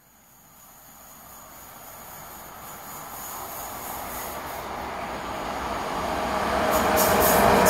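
An EU07 electric locomotive hauling an Intercity passenger train approaches, its rumble and rail noise growing steadily louder. A few sharp wheel clicks come in near the end as it nears.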